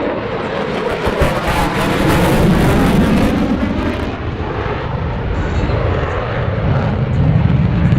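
Fixed-wing aircraft flying past with a loud, steady engine roar. It swells to its fullest and brightest about two to four seconds in, then eases off a little.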